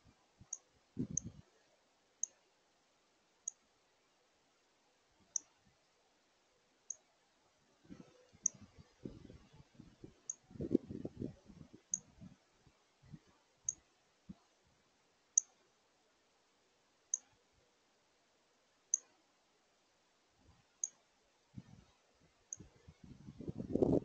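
Short, sharp, high chip notes repeated about every one and a half to two seconds, as a bird gives its chip call. Irregular low knocks and rustles from a female northern cardinal feeding on a hanging platform feeder come in the middle and again near the end.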